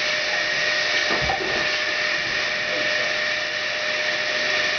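Dyson DC08 vacuum cleaner running, its airflow driving a ball-bearing computer fan at high speed: a steady whine over a loud rush of air.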